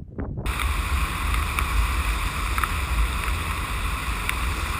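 Storm noise: wind buffeting the microphone in a heavy rumble, with a steady hiss of rain and a few scattered ticks, cutting in abruptly about half a second in.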